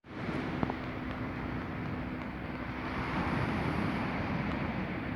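Steady wind noise on the microphone over sea surf at a beach, swelling a little about three seconds in, with a faint steady low hum underneath.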